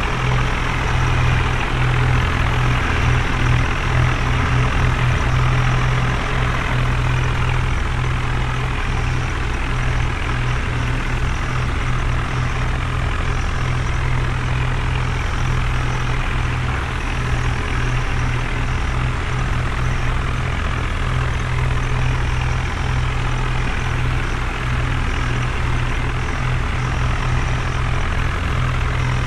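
Heavy diesel engine running steadily, a loud, even low drone throughout.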